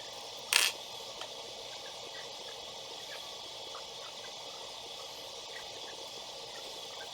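One short, sharp clack about half a second in, then a small click and a few faint ticks over a steady hiss.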